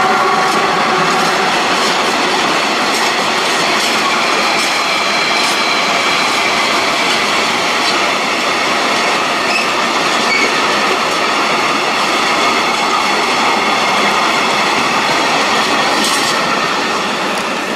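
Freight train of tarpaulin-covered wagons rolling steadily past behind an electric locomotive, a continuous rumble of steel wheels on rails with scattered clicks as the wheels pass over rail joints.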